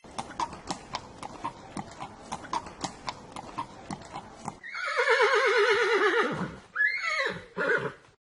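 Horse hooves clip-clopping, several hoofbeats a second, for about four and a half seconds. Then a horse whinnies in one long, quavering call, followed near the end by a shorter whinny.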